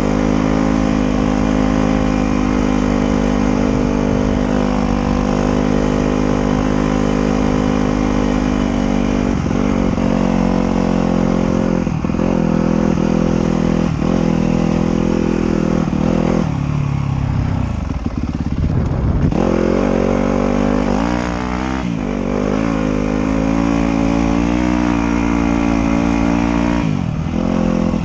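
Trail motorcycle engine running hard under steady throttle. Its pitch dips and climbs again several times, as at gear shifts or throttle changes, with a longer drop and rise about two-thirds of the way through.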